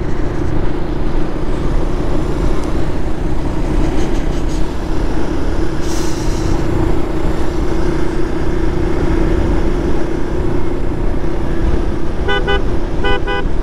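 Wind rush and a steady motorcycle engine drone while riding on the road. A vehicle horn gives several short beeps near the end.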